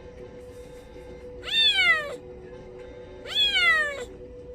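A kitten separated from its mother meows twice. Each cry is loud and high and lasts well under a second, falling in pitch as it goes.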